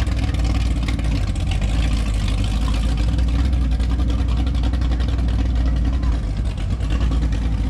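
Motorboat engine running steadily with a low drone.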